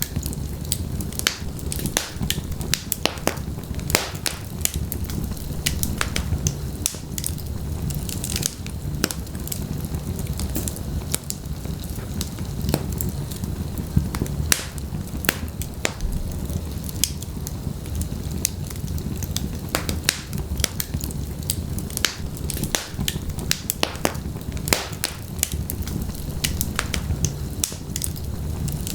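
Wood fire burning in a fireplace: a steady low rumble of flames with frequent sharp crackles and pops, several a second and irregular.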